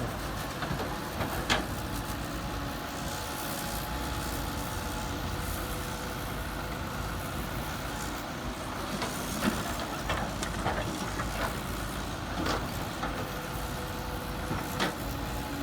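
Heavy construction machinery engine running steadily with a low rumble, with a few sharp knocks scattered through it.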